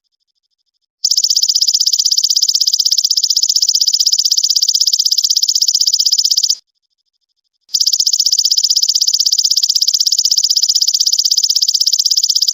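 Belalang emas (golden katydid) calling: a loud, high, evenly pulsed buzzing trill in two long bouts, broken by a pause of about a second near the start and another in the middle.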